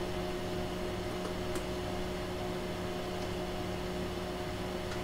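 Steady electrical hum and fan-like noise from running bench equipment, a few even tones over a soft hiss, with a faint tick about a second and a half in.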